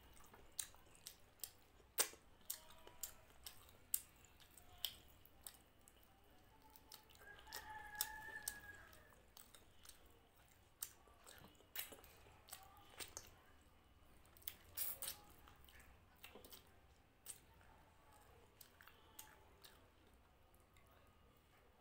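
Close-miked eating by hand: chewing, wet mouth clicks and smacks of mutton curry and rice, in many short sharp clicks. About seven seconds in, a drawn-out pitched call lasts about two seconds.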